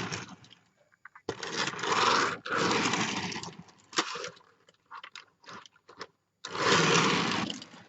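Die-cast Majorette toy bendy bus pushed along a surface, its small wheels rolling with a gritty rumble in three passes of about a second each, with a few light clicks and knocks between them.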